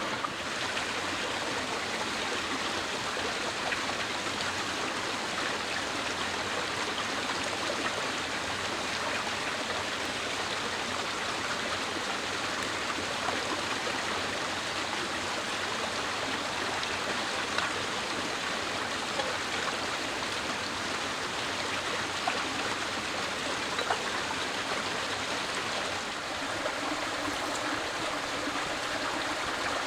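Running water rushing steadily, with a few faint ticks here and there.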